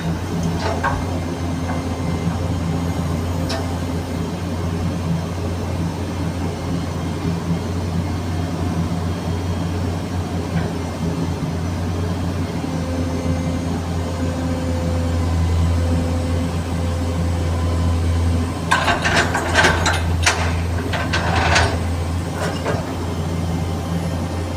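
Komatsu PC200-7 excavator's six-cylinder diesel engine running steadily, heard from inside the cab as a low drone. A quick series of knocks and clatters comes about three-quarters of the way through.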